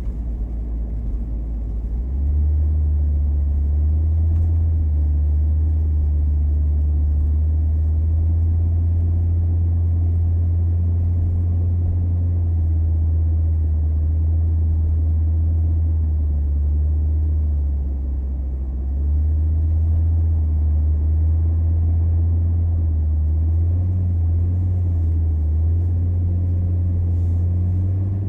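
Car driving on a snowy road, a steady low rumble of engine and road noise heard from inside the cabin. It grows louder about two seconds in, eases briefly past the middle, then comes back up.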